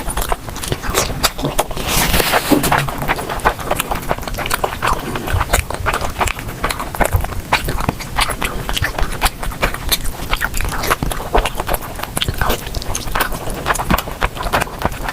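Close-miked eating: a person biting and chewing, a dense run of crunchy clicks and wet mouth sounds several times a second.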